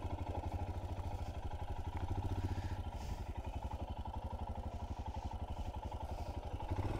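Royal Enfield Himalayan 411's single-cylinder engine running steadily at low revs with an even, fast pulsing beat.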